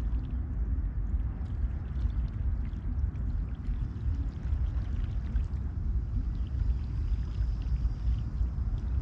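Seawater lapping and sloshing against a kayak's hull, with small splashes and drips, over a steady low rumble.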